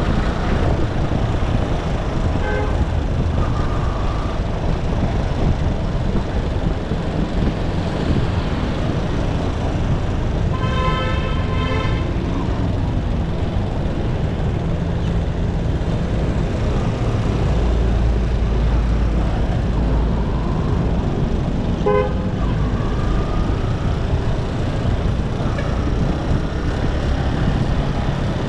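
Motorcycle engine running with steady road and wind noise while riding in traffic. A vehicle horn honks for over a second about a third of the way through, and gives a short beep later on.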